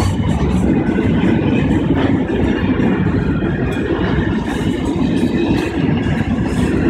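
Freight train of container wagons passing over a road level crossing: a steady, heavy rumble of wagons and wheels on the rails.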